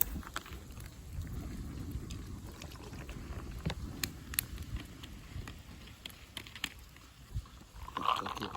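Campfire crackling with scattered, irregular sharp pops over a steady low rumble of wind on the microphone.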